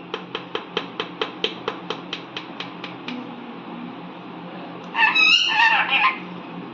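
A rapid, even run of about fourteen sharp clicks for about three seconds, then an Indian ringneck parrot's short, high call with wavering pitch about five seconds in.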